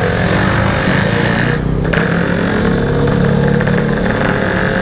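Yamaha RX-King two-stroke single-cylinder motorcycle engine running under way through its aftermarket exhaust, steady and loud, with a short break in the upper sound about two seconds in, like a lift-off for a gear change.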